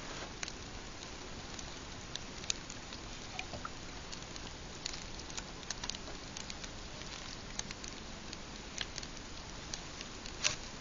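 Pine campfire crackling: irregular sharp pops over a steady background noise, with a louder pair of pops near the end.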